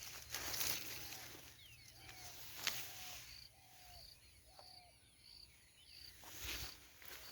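Faint outdoor nature sounds: a bird repeating a short, slightly falling call note, and a high, short chirp repeating about twice a second from about halfway in, with a few brief rustles.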